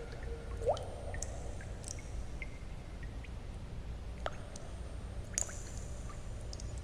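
Water drops falling irregularly into water, with small plinks and a rising 'bloop' about a second in, over a steady low white-noise hum.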